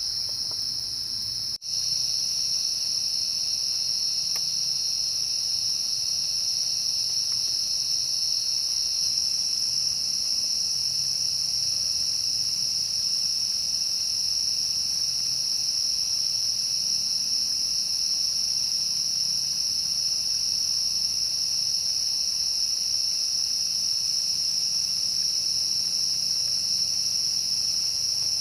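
Steady insect chorus: a continuous high, even buzz that breaks off for an instant about one and a half seconds in, then carries on unchanged.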